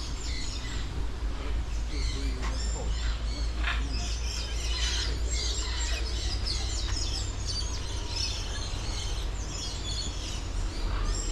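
Birds chirping and calling: many short, high chirps overlapping, busiest through the middle, over a steady low rumble.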